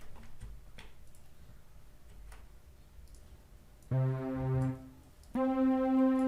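Faint clicking, then a synthesizer lead preset from the Heatup 2 plugin plays two held notes, the first about four seconds in and the second about a second and a half later.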